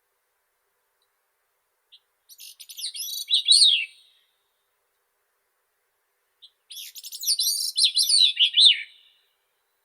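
Grey-cheeked thrush singing: two high song phrases of about two seconds each, the first about two seconds in and the second about seven seconds in, each ending in quick falling notes.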